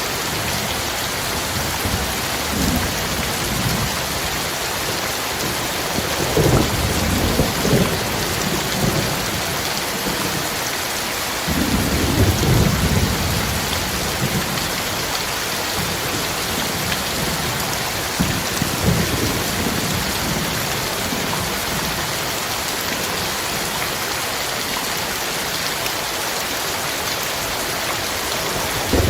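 Heavy, steady rain pouring down, with thunder rumbling low beneath it several times; the loudest rolls come about six and twelve seconds in.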